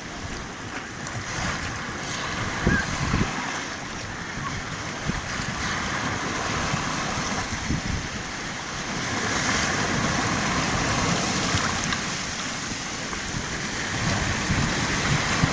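Black Sea surf breaking and washing in, a continuous rush that swells louder about two-thirds of the way through and again near the end, with wind buffeting the microphone.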